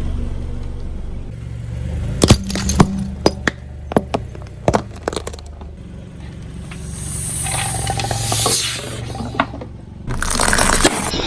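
Car tyre rolling over and crushing objects: a run of sharp cracks and crunches over a low steady hum, then hissing, spraying noise twice in the second half.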